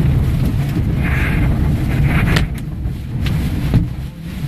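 Tornado wind buffeting a pickup truck, heard inside the cab: a loud, dense low rumble with several sharp knocks of debris striking the truck, the loudest near the end.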